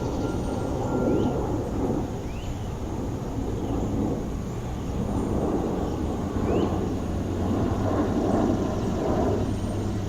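City park ambience: a steady low rumble of traffic and wind, with a noisy wash that swells and eases, and faint short rising chirps every second or two.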